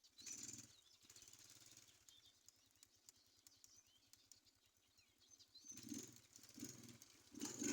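Faint birds chirping in short, pitch-sliding calls, with soft rustling swells about a second in, around six seconds in and again near the end.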